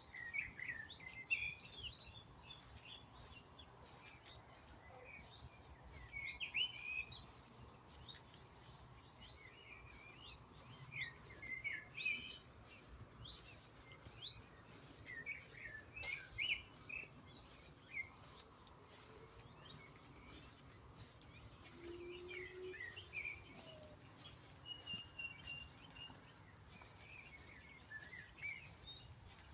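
Songbirds singing in woodland: short high chirping phrases every few seconds, over a faint steady low background hum.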